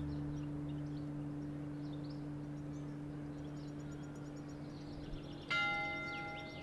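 A steady low hum with faint bird chirps over it. About five and a half seconds in, a single bell is struck and rings on, slowly dying away.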